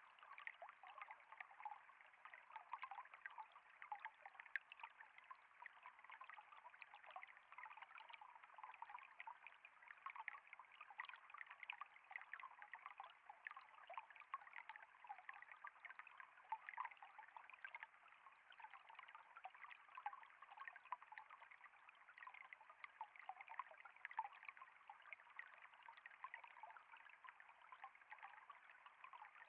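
Faint, steady trickling water: a continuous flow with many small splashes and drips and no change over the stretch.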